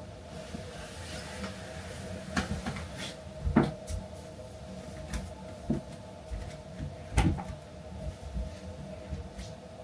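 Scattered household knocks and clunks of things being handled, such as cupboard doors and objects set down, the sharpest about three and a half and seven seconds in, over a steady low hum.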